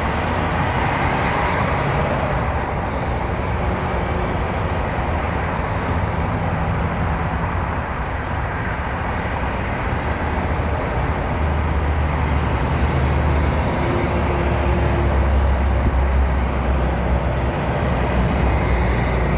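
A vehicle engine running with steady road noise, the low rumble growing deeper and louder about halfway through.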